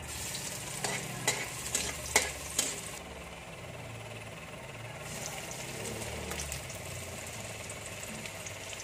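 Minced garlic sizzling in hot oil in an aluminium wok, with a metal spatula scraping and clinking against the pan several times in the first few seconds.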